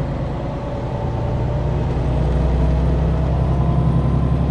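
Semi truck's diesel engine droning at cruising speed, heard from inside the cab with road noise, swelling a little louder about two seconds in.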